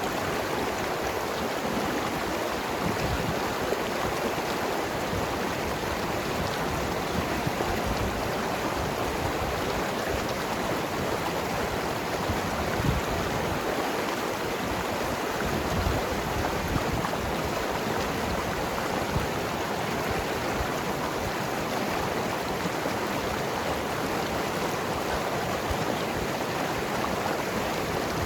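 Mountain river flowing over rocks: a steady rush of water with gurgling and splashing.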